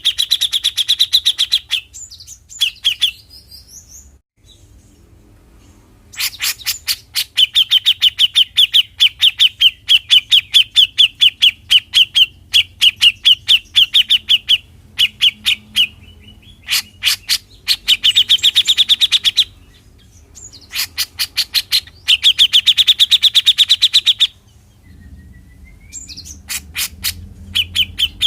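Grey-cheeked bulbul (cucak jenggot) giving its rapid rattling 'besetan' call: fast runs of sharp, evenly repeated notes. The runs come in loud bouts of one to several seconds, with short pauses between them.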